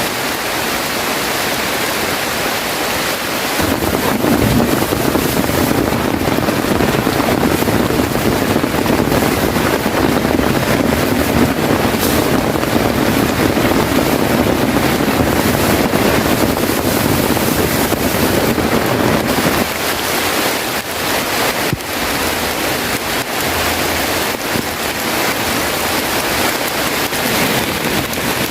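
Heavy rain, a steady rushing noise that grows louder about four seconds in and eases off about twenty seconds in.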